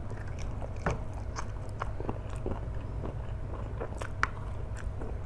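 Close-miked eating of flat rice noodles: steady chewing with many irregular wet mouth clicks and smacks, several a second, one sharper click about four seconds in.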